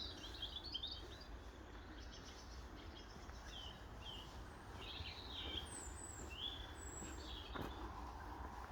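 Small woodland birds calling: scattered short, high chirps, with a few thin, very high notes in the middle, over a low steady rumble.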